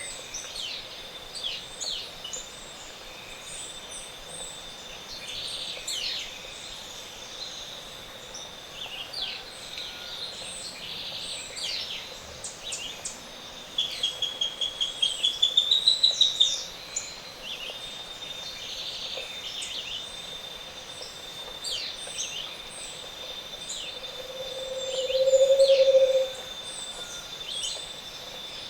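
Dawn chorus of tropical montane forest birds: many short chirps and whistles over a thin steady high tone. About halfway through a fast trill of notes rises in pitch and grows louder. Near the end a low hollow hooting series swells in volume, the song of a Scaled Antpitta.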